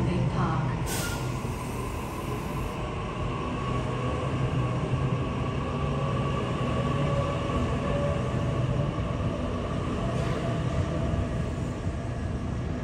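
Sydney Trains Waratah electric train standing at the platform, its onboard equipment giving a steady hum with a few fixed tones. A brief hiss sounds about a second in and lasts under two seconds.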